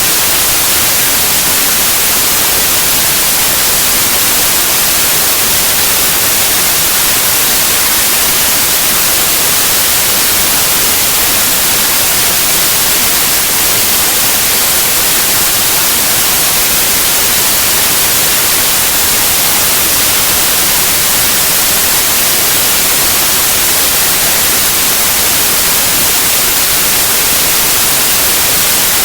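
Loud, steady white noise: an unchanging hiss spread across the whole range, strongest in the highs.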